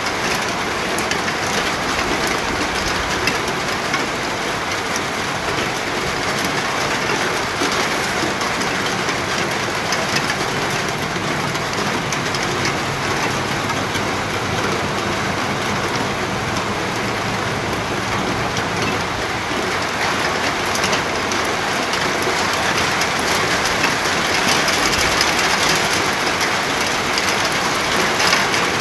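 Steady rain falling on a surface, a dense even hiss sprinkled with the ticks of individual drops. It grows a little louder near the end.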